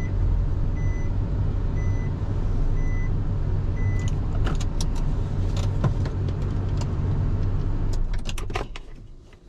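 Nissan Serena running with its low rumble, the reverse-gear warning beeping about once every 0.8 seconds for the first few seconds. Sharp clicks and knocks follow, and the sound dies away near the end.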